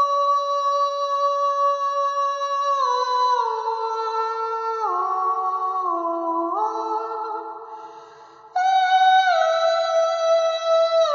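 A high voice singing long held notes without words, the pitch stepping down in a few steps; it fades off for about a second after the middle, then comes back on a higher note and steps down again.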